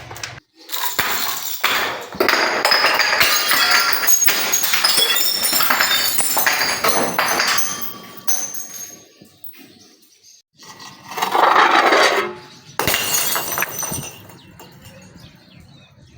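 Glass bottles breaking and being crushed: a dense run of cracking, crunching and tinkling shards for the first half. After that come quieter clinks and two shorter crunches in the second half.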